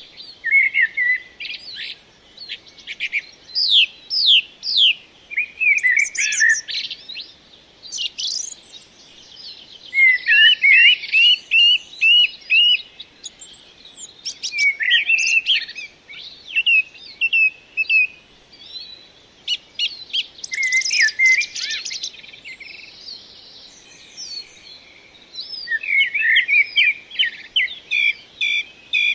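Birds singing: quick chirps, sweeping whistled notes and rapid trills in varied phrases, with short gaps between them.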